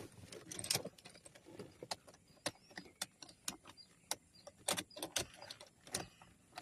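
A series of irregular sharp clicks and light key rattles, as of a car key being turned and worked in the ignition. No engine catches: the car will not start.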